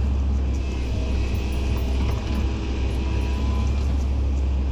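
Heavy diesel earthmoving machinery running steadily at the dig, a deep, continuous engine rumble.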